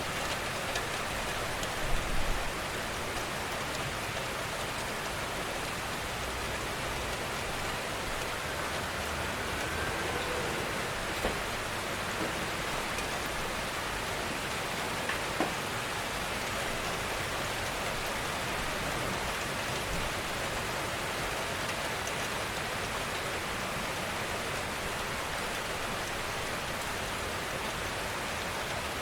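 Steady rain falling, an even hiss, with a few louder drops tapping close by.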